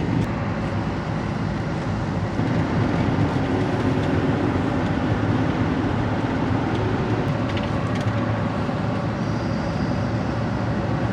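Steady roar of rushing water from nearby waterfalls, an even rushing noise with a deep low end.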